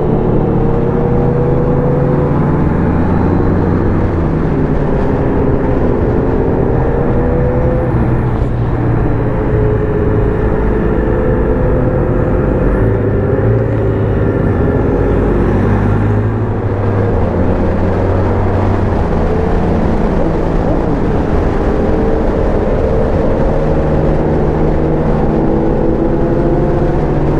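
Motorcycle engine running while riding, its pitch rising and falling with speed, with a steady rush of wind and road noise.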